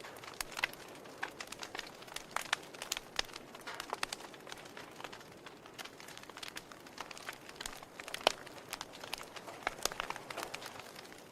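Wood fire crackling in a fireplace: burning logs give irregular pops and snaps over a soft hiss, with one sharper pop about eight seconds in.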